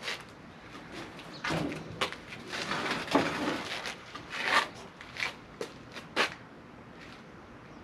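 Irregular knocks, clunks and short scrapes from engine parts and tools being handled and shifted during an engine installation, ending in a few sharp clicks.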